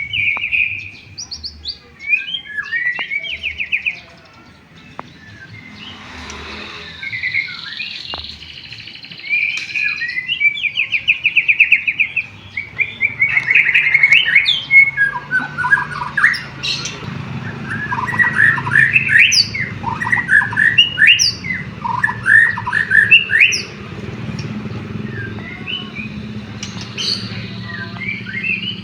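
White-rumped shama singing a varied song of whistled phrases and rapid trills, with canary-style phrases mixed in. The song thins out briefly a few seconds in, then comes back more densely.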